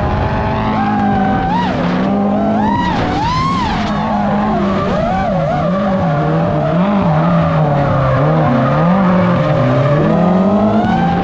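Drift cars running a tandem pass: engines revving up and down, their pitch rising and falling again and again, over tyre squeal.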